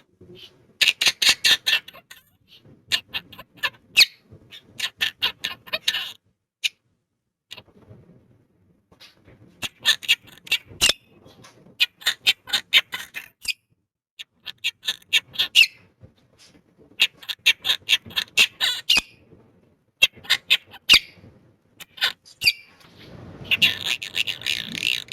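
Quaker parrot (monk parakeet) chattering and squawking in repeated bursts of rapid, sharp notes, with short pauses between bursts.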